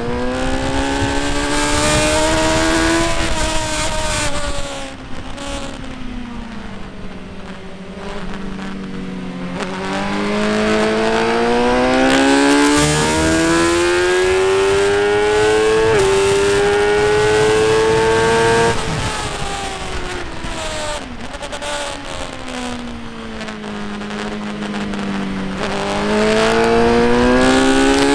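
Motorcycle engine on track, rising in pitch as it accelerates through the gears with a clear shift about halfway in, then dropping as it slows, twice over, before picking up again near the end.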